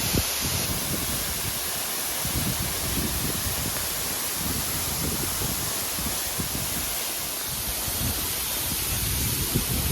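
Steady rushing roar of a tall waterfall falling close by. Irregular low buffeting on the microphone runs beneath it.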